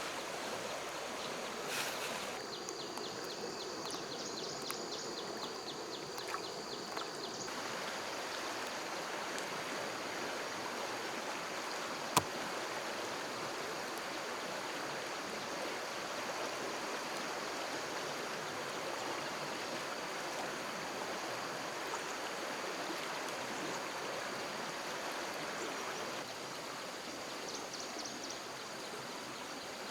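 Flowing stream water rushing steadily. There is a faint high-pitched pulsing chirp in the first few seconds and again near the end, and a single sharp click about twelve seconds in.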